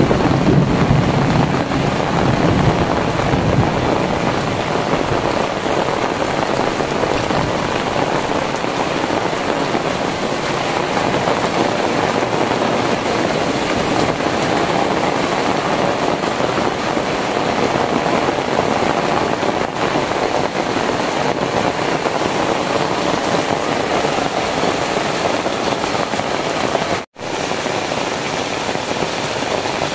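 Heavy rain pouring down, an even, dense hiss, with wind buffeting the microphone in the first few seconds. The sound drops out for an instant near the end, then the rain carries on.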